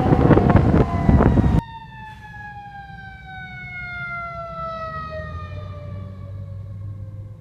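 Fire truck siren sounding loudly, cut off abruptly about a second and a half in. A quieter siren tone follows, sliding slowly and steadily down in pitch as it winds down, over a low engine hum.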